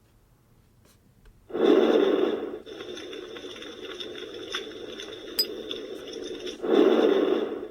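Campfire crackling played by a Takara Tomy FireWood Home toy fire. It starts suddenly about a second and a half in with a loud rush, then settles into a steady hiss with scattered sharp crackles. A second loud rush comes near the end.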